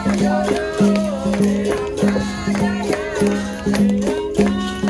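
Capoeira roda music: a berimbau's twanging note switches back and forth between two close pitches in a repeating rhythm, with shaker rattle, hand-drum and tambourine strokes, and voices singing over it.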